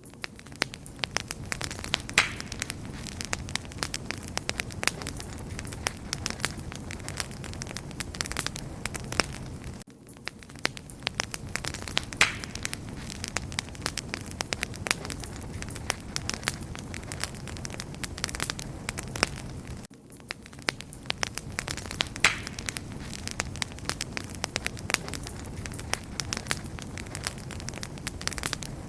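Wood fire crackling steadily, with a dense run of small sharp crackles and an occasional louder pop. It is a roughly ten-second recording looped, so the same pops recur and the level dips briefly about every ten seconds.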